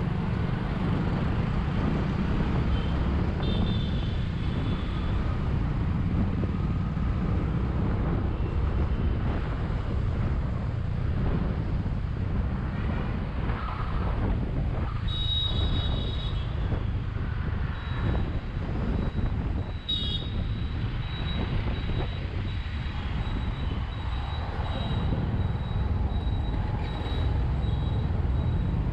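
Riding sound of a Bajaj V15 motorcycle, a single-cylinder 150 cc bike: steady engine and road noise with low wind rumble on the camera. A short high-pitched sound comes about fifteen seconds in, and another about twenty seconds in.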